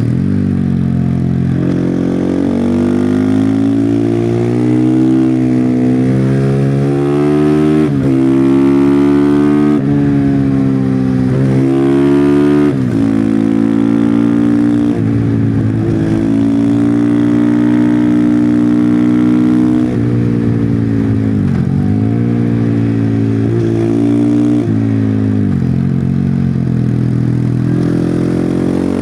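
Husqvarna FE501 supermoto's single-cylinder four-stroke engine on its stock exhaust, pulling hard and backing off again and again through a run of bends. Its pitch climbs steadily and then drops sharply many times over.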